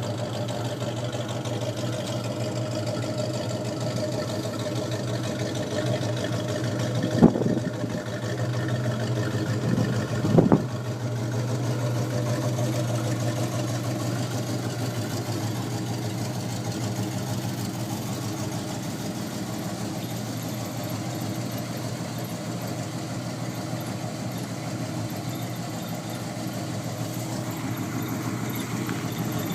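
A 1971 Ford Mustang Mach 1's 429 Cobra Jet V8, about 7 litres, idling with a deep, thick sound. It has two brief louder bursts, about seven and ten seconds in.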